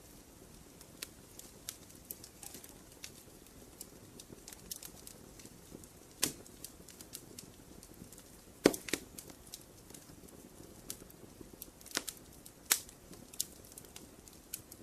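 Campfire crackling: a low hiss of burning wood with irregular sharp pops and snaps, the loudest about 6, 9 and 12 to 13 seconds in.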